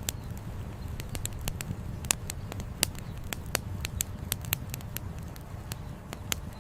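Wood campfire crackling, with sharp irregular pops and snaps several times a second over a steady low rumble.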